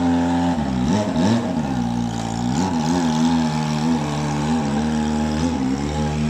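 Kawasaki ZX-25R's inline-four engine running through a custom-fabricated exhaust, its revs rising and falling several times in the first three seconds, then holding steadier with small dips.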